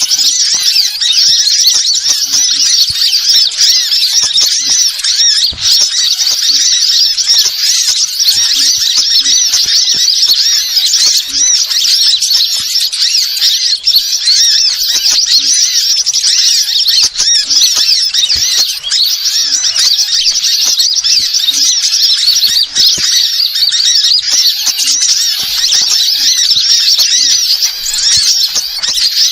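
Small songbirds chirping and twittering in a dense, unbroken high-pitched chatter, played as a bird-lure call recording.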